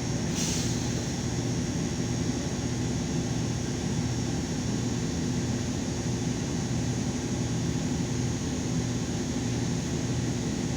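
LiAZ 5292.22 city bus's diesel engine running with a steady drone, heard from inside the cabin while riding. A short hiss of air comes about half a second in.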